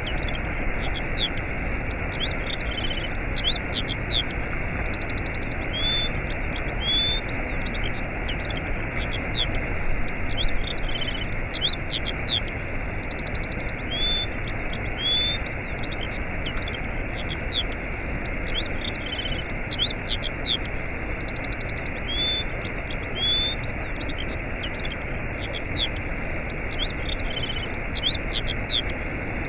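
Steady rushing of a waterfall with songbirds chirping over it in quick, high chirps and short trills. The same run of bird calls repeats about every twelve seconds, as in a looped recording.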